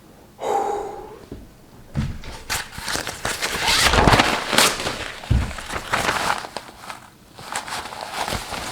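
Close-up mouth sounds of a man eating 2x-spicy Buldak ramen: a hissing breath, then a run of wet, crackly slurping and chewing noises.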